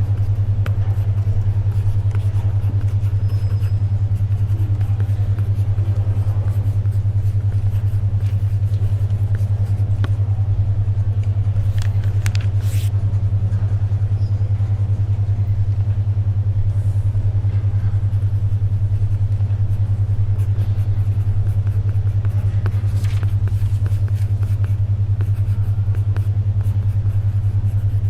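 Steady low brainwave hum, a 10.2 Hz alpha-wave beat tone, over faint library ambience. A few soft paper rustles come through, around the middle and again later on.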